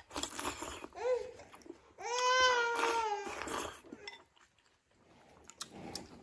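A young child's voice: a short babbling sound about a second in, then a cry held on one high pitch for over a second from about two seconds in, sagging slightly at its end.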